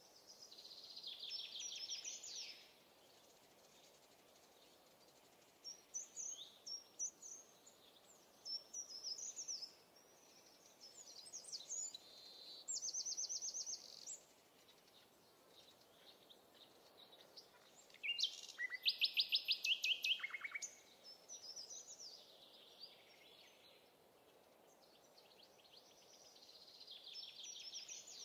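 Songbirds singing: short, separate song phrases and rapid high trills, the loudest a fast trill about two-thirds of the way through, over faint steady background noise.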